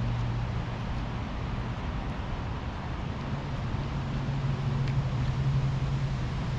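Engine running steadily with wind or road noise, its low hum stepping up slightly in pitch about three seconds in.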